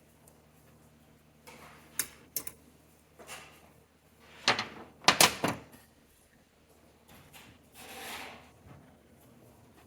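Metal clinks and knocks of a wrench and propane line fittings being handled: a couple of sharp clicks, then a louder cluster of clanks about halfway through, and a softer scrape near the end.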